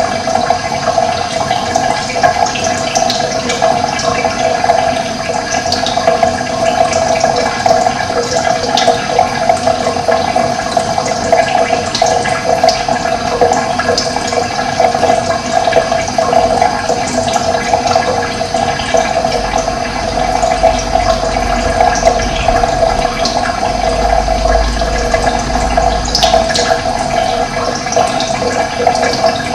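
Steady rush of running water, with short high bird chirps here and there over it.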